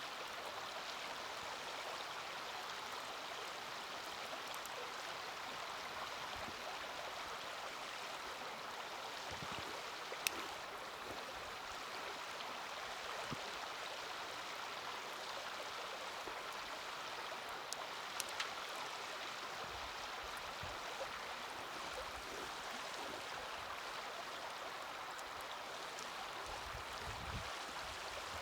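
Small wood fire in a mini fire stand burning with a few sharp crackling pops, the loudest about ten seconds in and a quick cluster near eighteen seconds, over a steady hiss.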